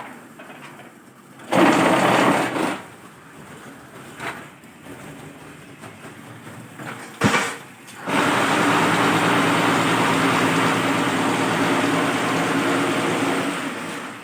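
QTJ4-25 concrete block making machine working: a short loud run of steady mechanical noise about a second and a half in, a sharp knock about seven seconds in, then a long, steady loud run that fades away near the end.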